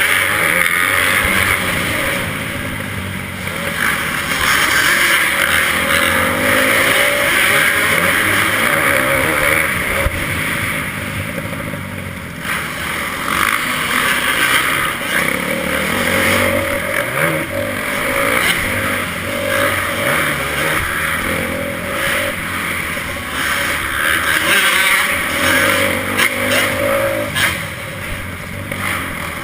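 Motocross bike engine running hard, its revs rising and falling continuously without a break.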